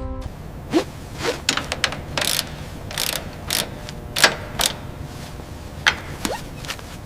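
Irregular metallic clicks and clanks of parts and tools being worked during disassembly, about a dozen sharp knocks at uneven spacing over a low steady hum.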